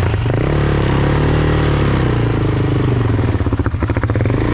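ATV engine revving under load as the quad tries to pull out of a rut. Its pitch rises just after the start and holds. About three and a half seconds in it falters into a fast pulsing for under a second, then picks up again.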